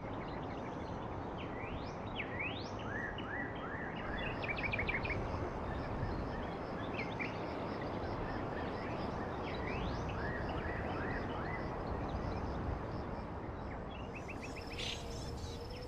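Outdoor nature ambience: small birds chirping, with many quick rising calls and short rapid trills, over a steady rushing background noise.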